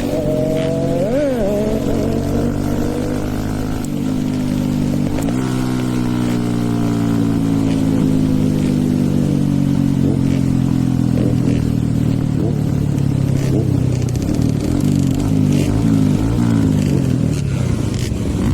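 Stage 2 tuned Hero Eco 150 motorcycle engine running under way. Its pitch swings up and down in the first seconds and jumps at gear changes, then falls slowly for several seconds as the bike slows. Another engine note weaves in and out near the end.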